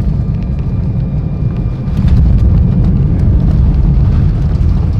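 Cabin noise inside an Embraer E170 jet: a heavy, steady rumble from the engines and airframe, growing louder about two seconds in.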